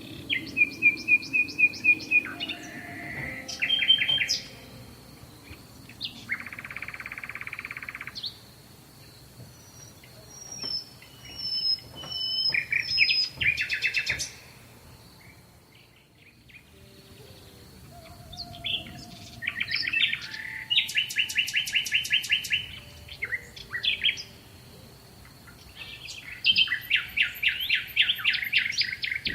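European goldfinch singing: phrases of rapid, liquid twittering trills mixed with a buzzy wheezing note, separated by short pauses.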